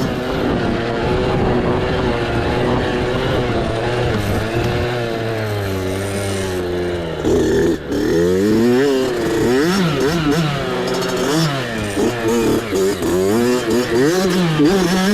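Mini bike engine revving up and down over and over while riding off-road, its pitch climbing and dropping every second or two, with a brief drop in the sound just before the middle.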